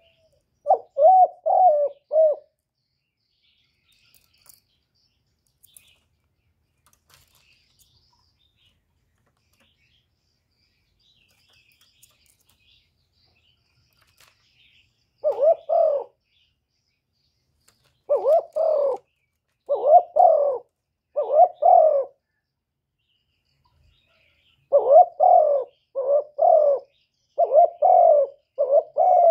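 Spotted dove (cu gáy) cooing in short phrases of repeated coo notes, each well under a second. There is one phrase about a second in, then a long pause. The phrases come back from about halfway and follow each other faster near the end.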